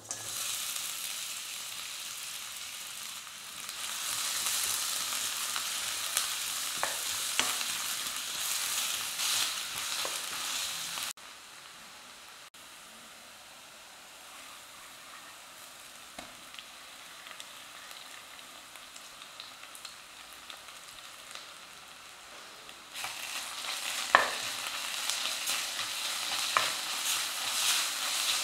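Food frying in hot oil in a pan, a steady sizzling hiss, with a spoon scraping and clinking against the pan now and then as it is stirred. The sizzle drops suddenly to a much quieter level about eleven seconds in and comes back loud again about twelve seconds later, with one sharp scrape soon after.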